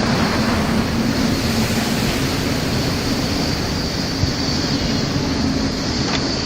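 Storm wind and heavy sea rushing steadily over a ship, with a steady low engine drone underneath.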